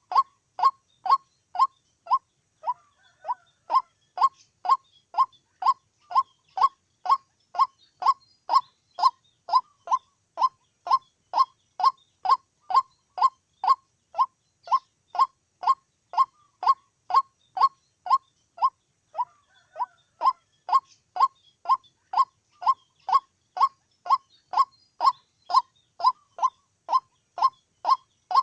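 White-breasted waterhen calling: one short note repeated steadily about twice a second, with brief breaks near the start and about two-thirds of the way through.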